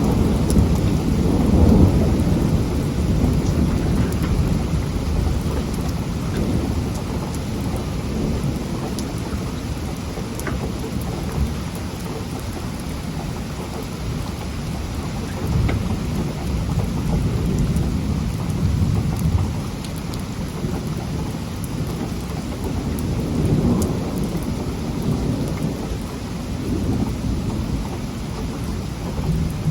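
Thunderstorm: heavy rain falling steadily, with thunder rumbling low underneath. The rumble is strongest in the first couple of seconds and swells again several times later on.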